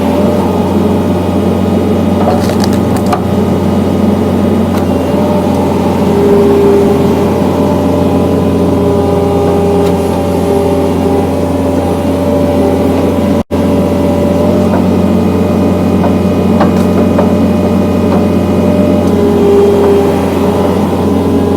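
John Deere skid steer's diesel engine running steadily under hydraulic load, with a whine that swells now and then as it drives a log splitter attachment. A few sharp cracks of splitting wood.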